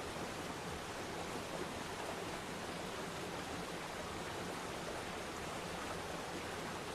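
Waterfall: water falling and splashing into a pool in a steady, even rush.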